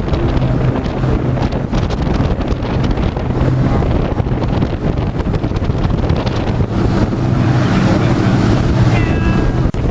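Wind buffeting the microphone over a steady low drone of WWII piston aero engines. The noise swells from about seven seconds in.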